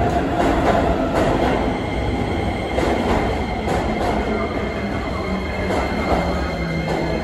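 Keisei electric commuter train running into an underground platform, with a steady rumble and wheels clicking over rail joints. Its motor tone drops in pitch near the end as the train brakes to a stop.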